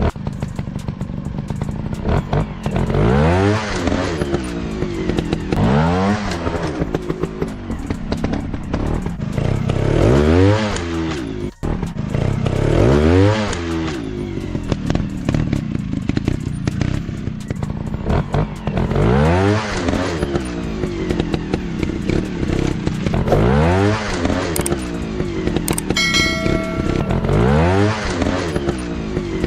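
Dirt bike engine revving up and dropping back again and again, one throttle blip about every three seconds between stretches of steadier running.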